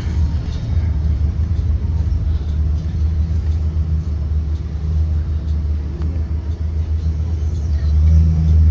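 Blue Bird Vision school bus on the move, heard from on board: a steady low engine and road rumble that swells a little near the end.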